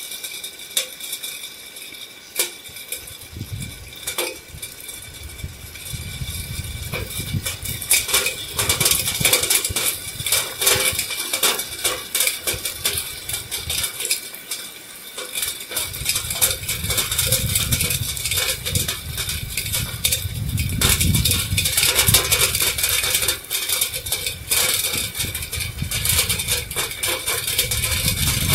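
Heavy rain falling on a paved street and puddles, a dense patter of many sharp drop hits, with a low rumble that swells and fades from a few seconds in.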